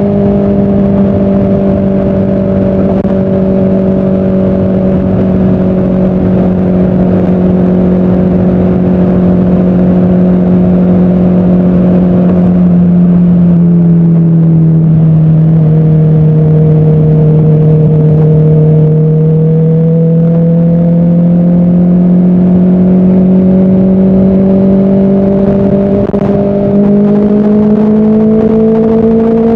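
Motorcycle engine cruising at steady revs on a highway, with wind and road noise under it. About halfway through, the revs ease off a little, then climb slowly back up over the following seconds.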